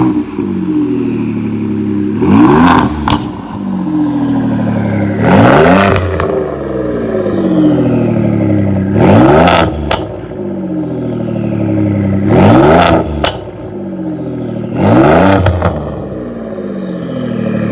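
Ford 3.5L EcoBoost twin-turbo V6 through a Corsa exhaust, revved in about six quick blips. Each rev is followed by a high turbo whistle winding down and a sharp hiss from the stock blow-off valve venting to the air, since its recirculation tube is disconnected.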